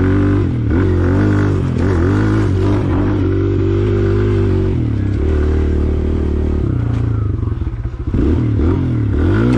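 Small, underpowered dirt bike engine revving up and falling back over and over as it is ridden along a trail, with some clattering. The engine pitch drops briefly about eight seconds in, then revs up again.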